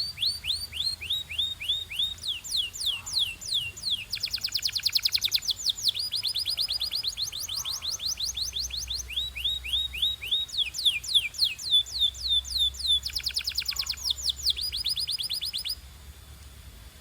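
Canary singing a rolling song in tours: runs of rapidly repeated down-slurred whistled notes, each run at its own pitch and speed, switching every second or two. The song stops about a second before the end.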